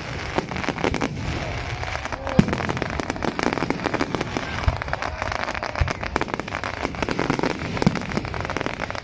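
Fireworks display: continuous rapid crackling and popping, with several louder bangs spread through.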